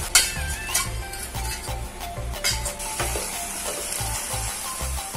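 Onions and garlic–green chili paste sizzling in hot oil in a pan as they are stirred with a wooden spatula, with background music and its bass line playing along. A short sharp hit sounds right at the start.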